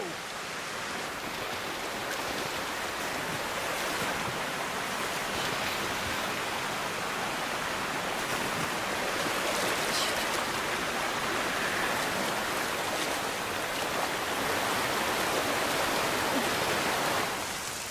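Steady rushing water noise, like a downpour or a fast stream, even and unbroken with no distinct events.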